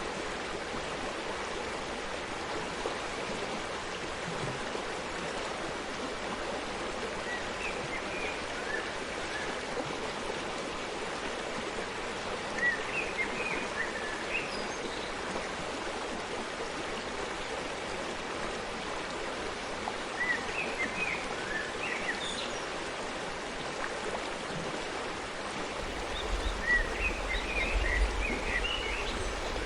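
Forest stream flowing steadily, with birds chirping in short bunches every several seconds. A low rumble comes in near the end.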